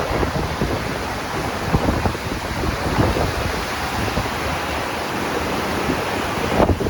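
Wind buffeting the microphone over a steady rush of sea water, in uneven gusts.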